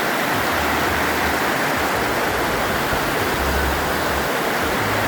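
Steady rushing of a waterfall and stream, a constant loud wash of water noise.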